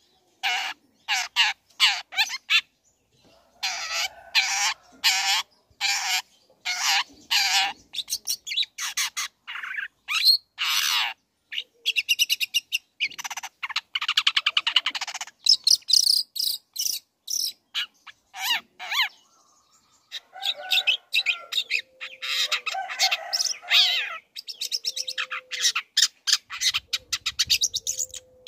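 Long-tailed shrike (cendet) singing in full voice: runs of short, harsh notes and rapid chattering, broken by brief pauses. This is the excited song that keepers play to provoke other shrikes into answering.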